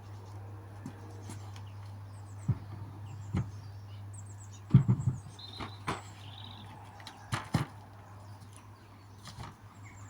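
Scattered knocks and clicks of a diesel heater's fuel reservoir lid being handled and fitted back on, the loudest a quick cluster about five seconds in. A steady low hum runs underneath, and small birds chirp a few times.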